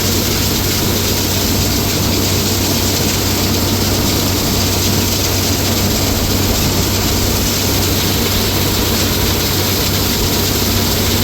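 A large machine running steadily at close range: a loud, even rush with a deep, constant hum underneath.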